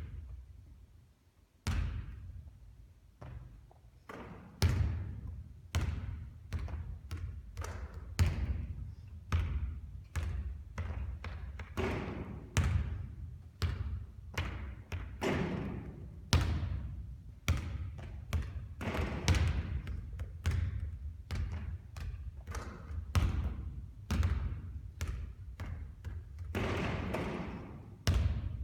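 Basketballs bouncing on a court floor during repeated three-point shooting: a steady run of low thuds, about one or two a second, some with a sharper knock on top.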